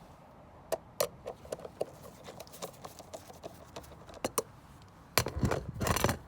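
Light plastic clicks and taps from the car's air filter housing and filter being handled, a dozen or so over a few seconds. Near the end comes a louder scraping rustle lasting about a second.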